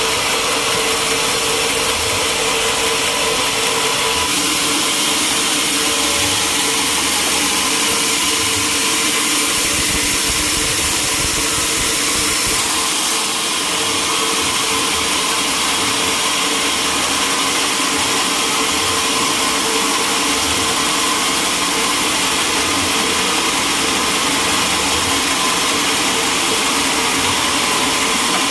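Sawmill running steadily as it cuts through a large mahogany log, a continuous mechanical drone with a dense hiss and a faint steady whine.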